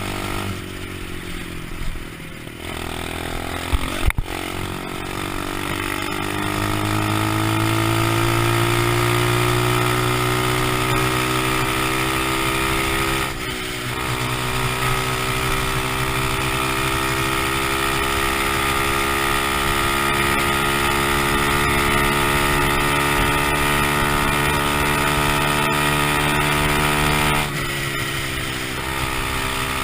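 A 125cc pit bike's single-cylinder engine under way, with one sharp knock about four seconds in. Its note then climbs as the bike accelerates and holds high and steady, with a short break about thirteen seconds in and a drop near the end.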